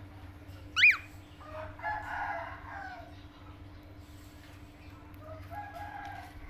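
Bird calls: a loud, sharp whistle about a second in, then a longer crowing call like a rooster's, and a fainter call near the end.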